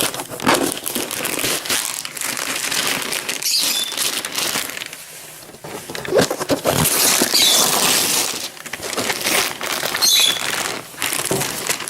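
Wrapping paper rustling, crinkling and tearing as a present is unwrapped.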